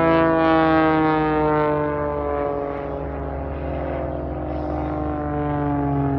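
Propeller-driven aircraft flying past, the engine and propeller note sliding slowly down in pitch as it goes by, loudest in the first two seconds.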